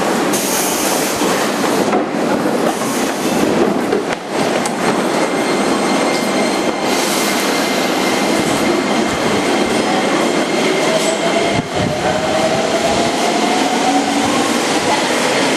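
Interior running noise of a JR 205-5000 series electric train car (MoHa 205-5022): wheel and rail rumble with rail-joint clatter. In the second half, a traction motor tone climbs slowly in pitch as the train gathers speed.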